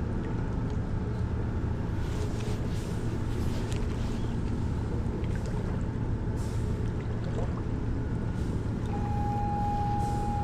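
Steady low engine drone, with a steady high single tone for about two seconds near the end.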